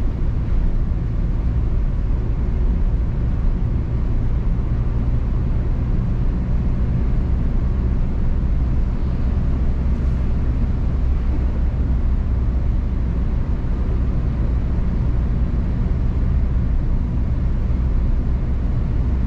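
Mazda 2 on the road, a steady low rumble of tyre and road noise with the engine running underneath.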